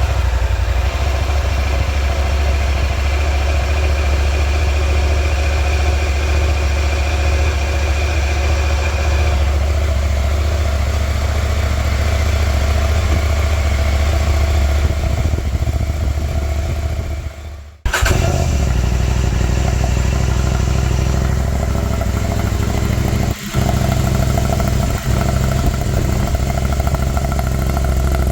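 KTM 890 Adventure R parallel-twin engine idling steadily. About 17 seconds in it fades out, then the idle comes back abruptly with a different tone: the same bike on its stock exhaust with the catalytic converter, then with an Arrow decat pipe in place of the converter.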